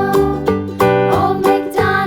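Cheerful children's background music led by a plucked string instrument like a ukulele, with a bouncy, even beat.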